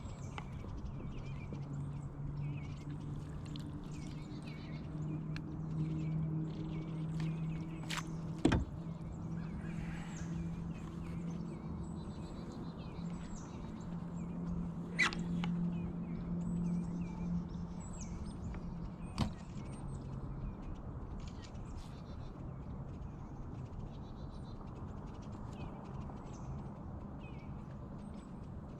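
Small birds chirping and twittering over a steady low hum that swells and then fades about two-thirds of the way through. Three sharp clicks stand out: about 8 s, 15 s and 19 s in.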